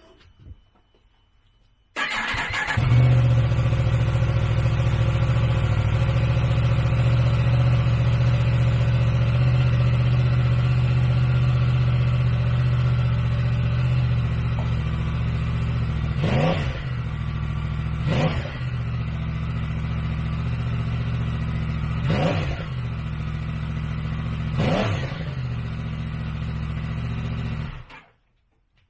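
Yamaha MT-10's crossplane inline-four engine starting, then idling steadily through its aftermarket exhaust. It is blipped four times with quick rises and falls in pitch, and the sound cuts off sharply near the end.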